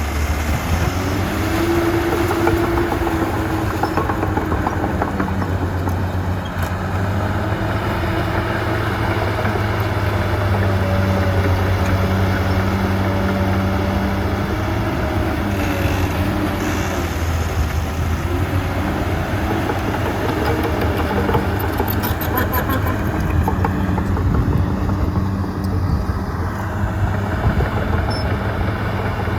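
Diesel engine of heavy earthmoving machinery running steadily, its pitch drifting up and down a little.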